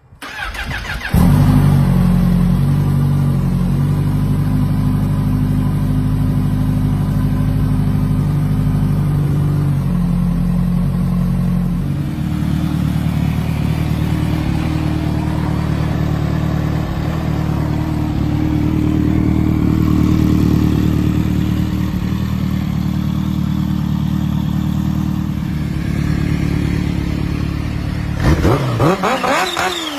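Kawasaki Ninja H2's supercharged inline-four running through a Vandemon titanium exhaust: it comes in suddenly and idles steadily, with the idle stepping up a little partway through. It is revved up and down a few times near the end.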